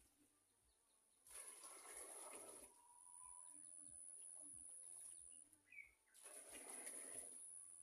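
Faint rural outdoor ambience: a steady high-pitched whine, a few soft bird chirps, and two rustling noises of about a second and a half each.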